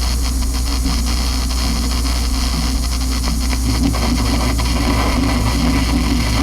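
Experimental noise music: a dense, steady wall of hiss and static over a constant low hum.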